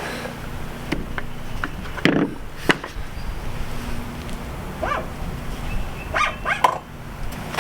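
A dog barking a few short times in the second half, a single call and then a quick cluster of three or so. About two seconds in there are a couple of sharp knocks.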